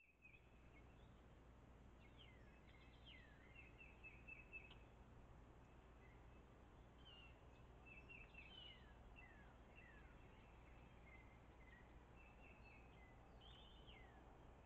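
Faint songbird calls: short repeated chirps and quick downward-sliding notes in scattered clusters, over a steady low hum.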